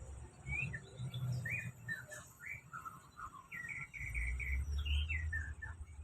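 A songbird singing a varied song of short chirps and whistled notes, with a quick run of about five repeated notes in the middle. A low rumble runs underneath.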